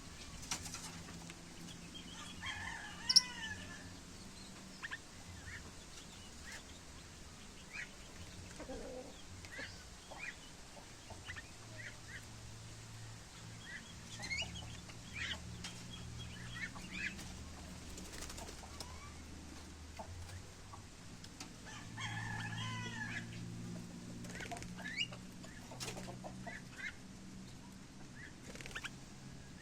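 Aviary birds calling: scattered short chirps throughout, with two longer runs of warbling calls, about two seconds in and again about twenty-two seconds in. A sharp click comes about three seconds in, over a faint steady low hum.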